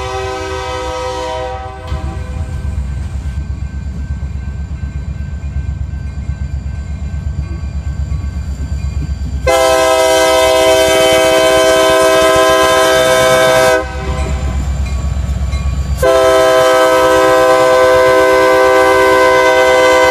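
Diesel freight locomotive's multi-chime air horn sounding long blasts: one ending about two seconds in, another of about four seconds near the middle, and a third starting about two seconds later and still sounding at the end. Between the blasts, the locomotive's low, pulsing rumble.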